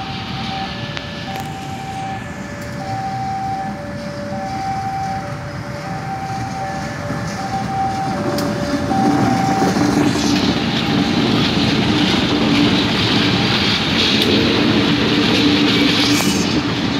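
Level-crossing warning alarm sounding alternating high and low tones, each under a second long, until about halfway through. Then a CC 203 diesel-electric locomotive's engine and wheels grow loud as it passes close, with a few sharp clicks of wheels over rail joints near the end.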